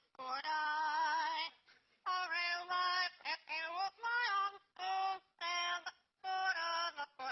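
Parrot singing a song in a human-like voice: short sung phrases with held, wavering notes, broken by brief pauses.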